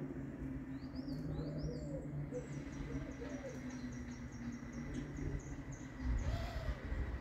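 Small birds calling: a few quick high chirps about a second in, then a rapid, even series of thin very high notes, about four a second, for some three seconds. Under them runs a steady low hum, and a louder low rumble comes in near the end.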